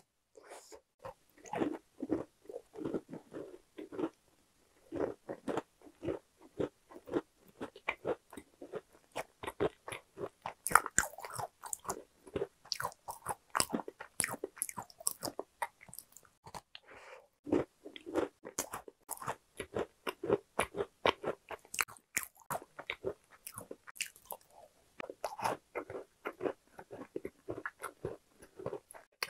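A person biting and chewing a golden baked pastry close to the microphone: a dense run of small crunches and crackles, with a brief pause a little past halfway.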